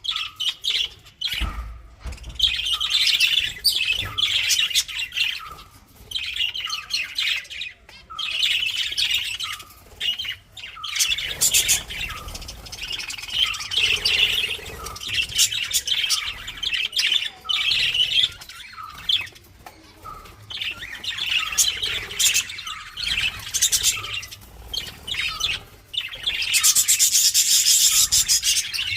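Lovebirds chirping and chattering almost without pause, with many short repeated call notes. Near the end they break into a louder, harsher, high-pitched burst of calling.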